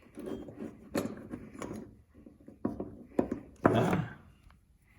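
Scattered knocks, clicks and scraping from tools and parts being handled against a stand mixer's opened gear housing while food-grade grease is being put into the gear mechanism, the loudest scrape a little before the end.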